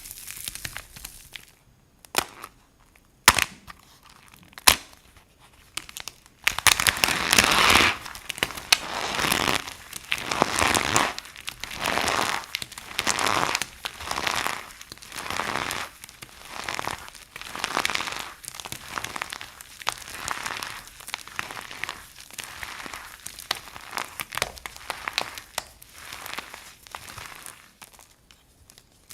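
Dry soap crunching: a few sharp cracks at first, then a long run of crunching, scraping strokes about one a second, loudest near the start of the run and growing softer toward the end.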